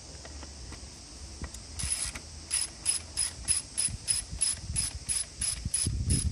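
Ratchet wrench clicking: after about two seconds, a steady run of sharp metallic clicks, about three a second, over a faint low hum.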